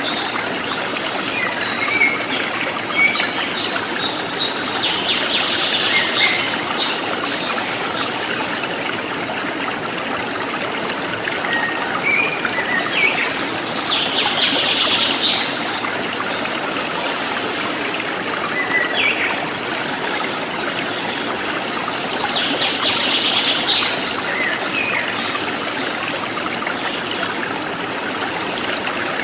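Stream water trickling steadily, with wild birds calling over it: a cluster of quick chirps about every eight or nine seconds and short rising notes in between.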